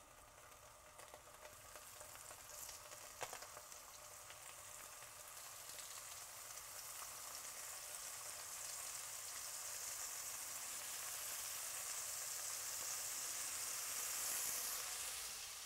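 Halloumi slices frying in hot oil in a frying pan: a steady sizzle that builds louder over several seconds, then fades near the end. One light click about three seconds in.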